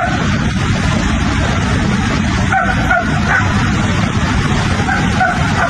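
Heavy rain pouring down steadily and loudly, with a dog yelping a few short times about halfway through and again near the end.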